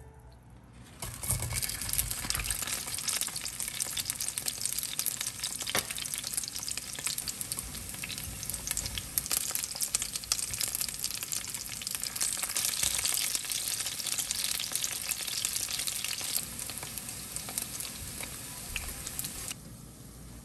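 Battered pieces of meat shallow-frying in hot oil in a frying pan: a dense, crackling sizzle with oil spattering. It starts about a second in and stops abruptly near the end.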